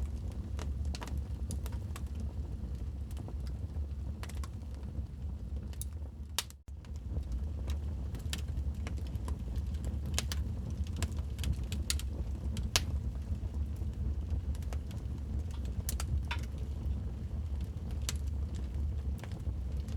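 Wood fire burning in a fireplace, crackling and popping with scattered sharp snaps over a steady low rumble. The sound dips out abruptly for a moment about six and a half seconds in.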